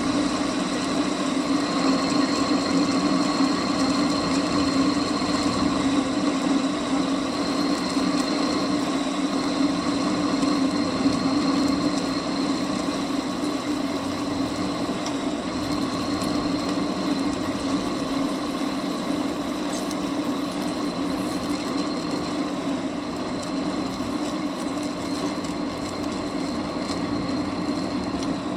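Metal lathe running steadily, its motor and gearing giving a constant hum with a high whine over it.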